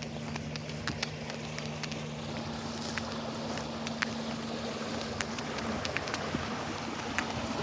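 A steady low motor hum that stops about six seconds in, with scattered small clicks and ticks over an outdoor background hiss.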